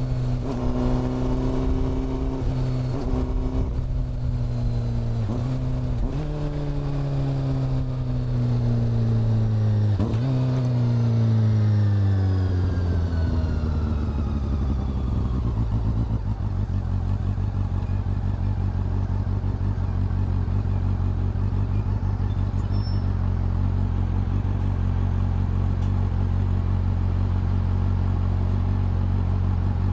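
Honda CB400 Super Four's inline-four engine and exhaust, running steadily at first, then dropping in pitch as the bike slows, with a few short rev blips on downshifts. In the second half it settles into a steady low idle.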